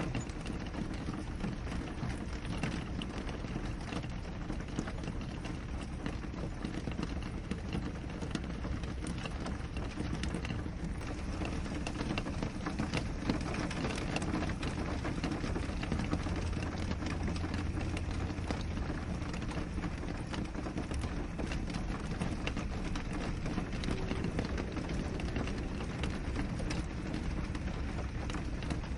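Steady rain on a window: a constant hiss of rainfall with many small drop taps on the glass.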